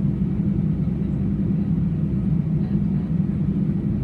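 Steady low rumble of engine and airflow noise inside the passenger cabin of an Airbus A320.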